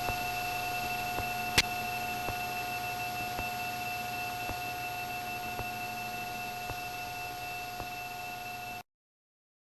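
Cessna 310's twin engines and propellers droning steadily in cruise, heard through the headset intercom as fixed tones. A faint pulse comes about once a second, the beat of the two propellers while they are being synchronised. The sound cuts off abruptly near the end.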